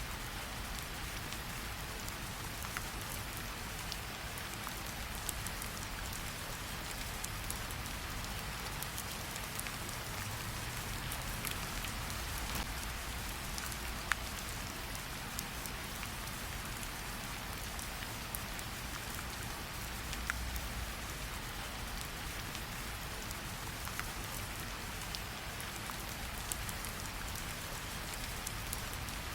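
Steady rain falling, an even hiss with scattered sharp ticks and pops, one of them louder about halfway through.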